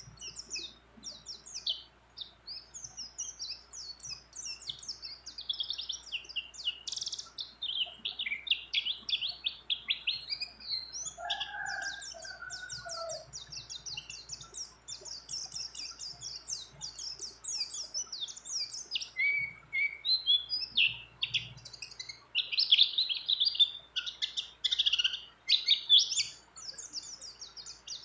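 A white-eye (pleci) singing without pause: rapid, high twittering trills and rolling phrases. A brief lower-pitched call breaks in about eleven seconds in.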